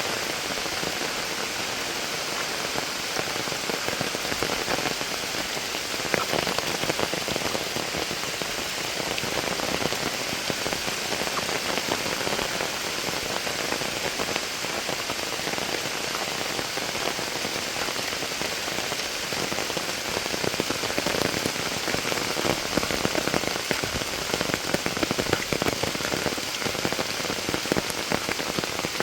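Heavy monsoon rain falling steadily, with a dense patter of sharp, close drop hits throughout.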